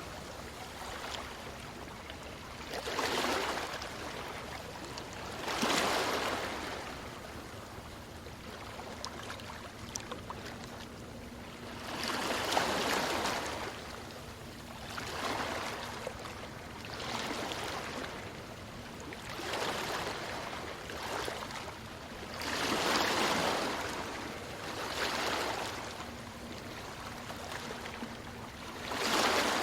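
Small waves breaking over stones, each wash swelling and ebbing every two to three seconds over a steady background of water noise.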